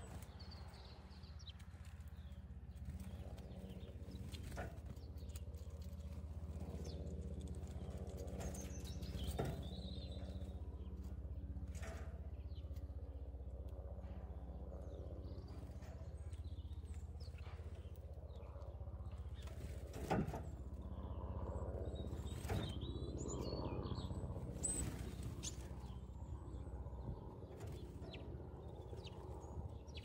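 Small garden birds chirping a few times over a steady low hum, with scattered sharp taps.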